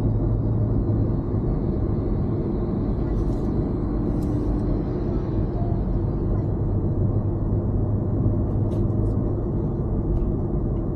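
Steady low rumble of a car driving slowly, engine and tyre noise heard from inside the cabin, with a few faint ticks.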